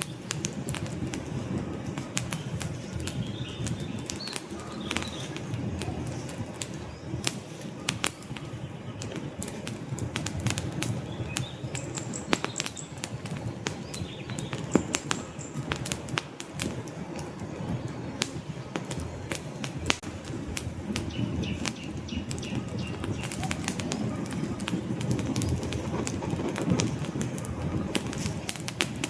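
Wood fire burning in a fireplace, with a steady low rumble of flame and dense, irregular crackles and pops from the logs, a few sharper pops standing out.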